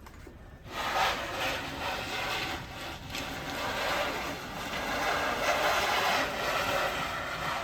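A car stuck on an icy hill with its tyres spinning on the ice: a noisy hiss that starts suddenly just under a second in and then surges and eases.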